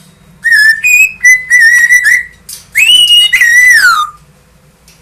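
A parrot whistling a short tune: a quick run of clear notes, then a longer higher note and a last note that glides down.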